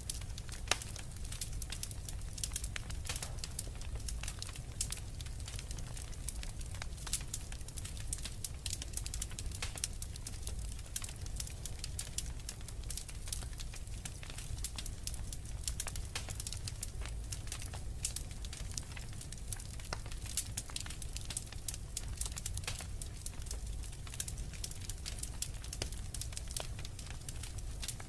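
Wood fire crackling, with frequent small, irregular pops and snaps over a low, steady rumble of the flames.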